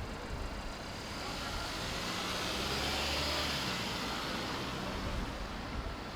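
A road vehicle passing by: its engine hum and tyre noise swell up about two seconds in and fade away again, over steady street noise.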